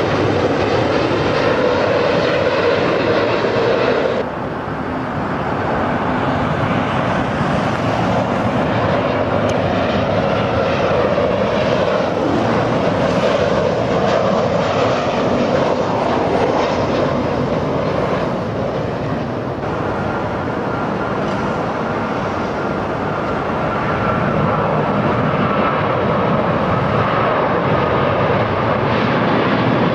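Airplane engines running loud and steady, with a faint whine above the roar. The sound changes abruptly about four seconds in and again about twenty seconds in.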